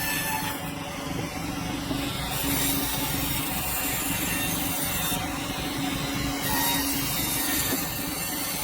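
Sawmill running steadily, its saw working through a hardwood log with a constant hum under the cutting noise.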